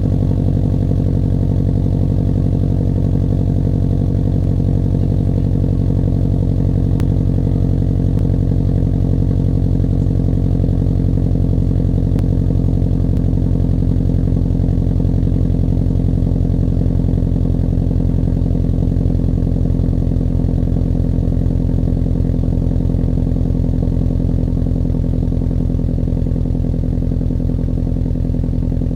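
2011 Subaru STI's turbocharged flat-four idling steadily after a cold start, heard through a COBB catted downpipe and an Invidia Q300 cat-back exhaust.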